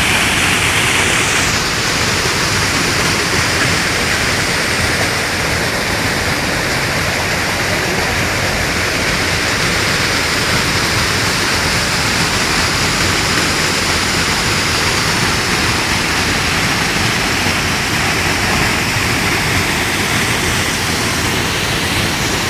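Waterfall: water falling and rushing in a loud, steady, unbroken roar of noise.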